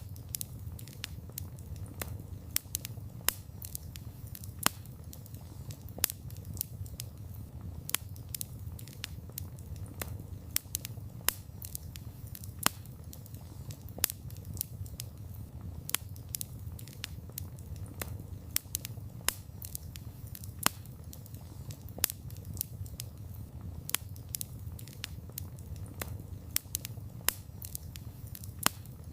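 Wood fire burning, with sharp crackles and pops a few times a second over a steady low rumble of flame.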